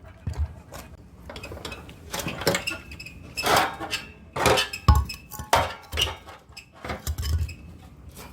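Metal parts of a scrapped air-conditioner outdoor unit clanking and scraping as it is taken apart by hand, with irregular knocks and short rasps.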